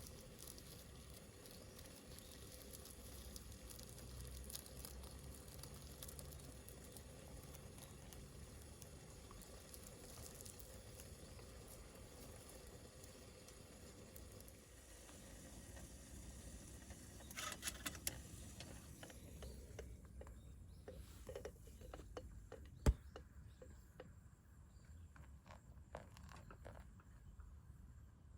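Faint outdoor ambience: a low steady rumble with light crackling and scattered small clicks, a short flurry of clicks past the middle, and one sharp knock later on.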